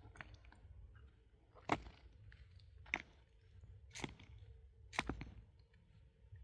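Four sharp blows of a pickaxe striking rock, about one a second.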